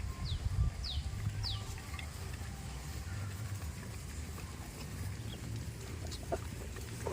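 A small bird calling: three short, high chirps, each falling in pitch, about half a second apart near the start, over a steady low rumble, then a few faint clicks.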